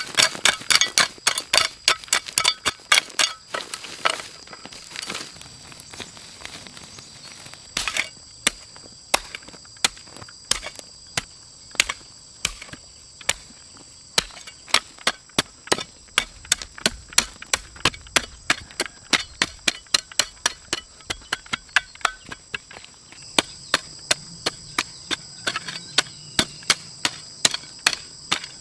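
Rapid series of sharp chopping or knocking strikes, two to four a second with short pauses, over a steady high-pitched trill.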